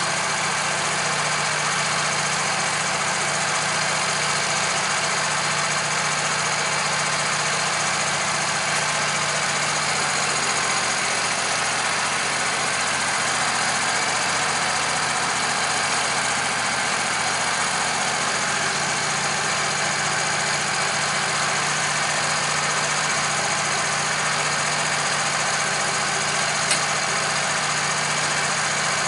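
A machine motor running with a steady, unchanging hum, and one faint click near the end.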